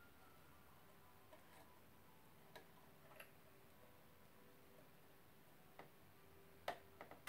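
Near silence broken by a few faint clicks and taps of sewing thread and machine parts being handled, with the loudest click near the end followed quickly by two or three smaller ones.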